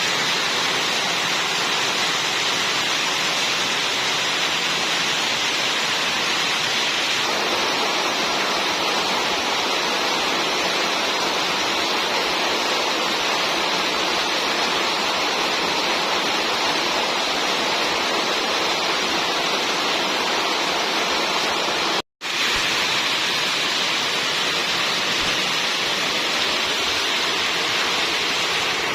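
Heavy rain falling steadily, an even loud hiss of rainfall that cuts out for a split second about three-quarters of the way through.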